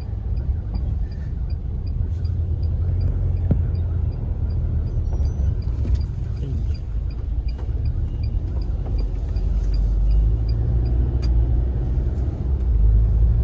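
Steady low rumble of a moving car heard from inside the cabin, with a faint regular ticking about two to three times a second that stops near the end.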